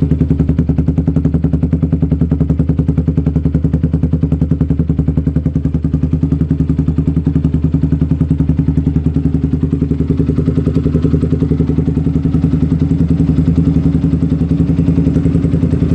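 Yamaha Vixion's 150 cc single-cylinder four-stroke engine idling steadily through an aftermarket exhaust, an even, fast pulsing beat with no revving.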